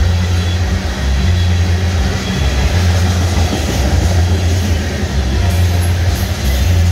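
Freight train of tank cars rolling past at speed: a loud, steady rumble of steel wheels on the rails.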